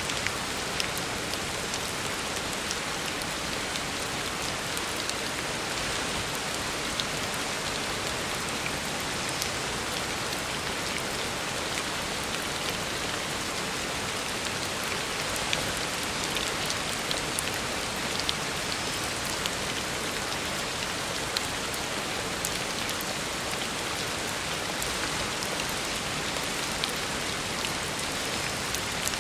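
Heavy rain falling steadily on a road surface, a dense even hiss with many small drop splashes scattered through it.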